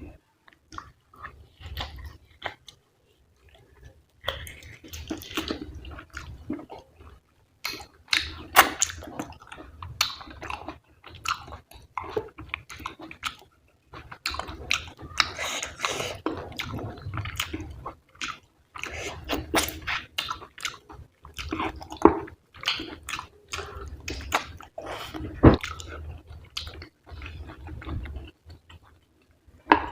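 Close-up chewing of fatty mutton: wet smacking and squelching with sharp clicks, in irregular runs broken by short pauses.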